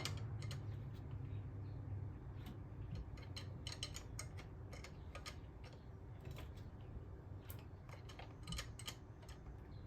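Faint, irregular metallic clicks in small clusters from hand tools, as the 3.7L V6's crankshaft is turned over by hand to bring the piston up to top dead center on the compression stroke.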